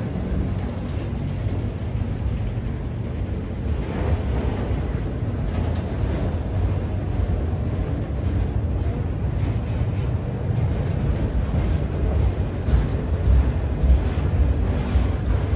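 Norfolk Southern freight train rolling past: a steady, heavy rumble of cars on the rails, with faint scattered clicks from the wheels.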